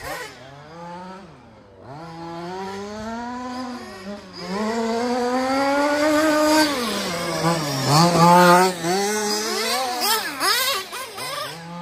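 Zenoah two-stroke petrol engine of a 1/5-scale FG Peugeot 206 WRC RC car revving up and down as it is driven, its pitch climbing and dropping repeatedly, with the deepest dip about eight seconds in.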